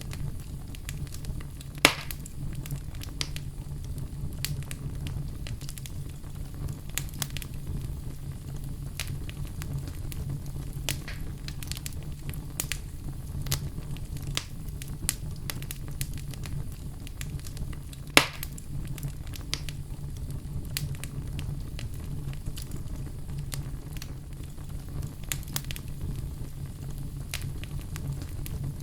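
Wood fire crackling steadily over a low rumble, with scattered small snaps and two loud pops, one about two seconds in and one past the middle.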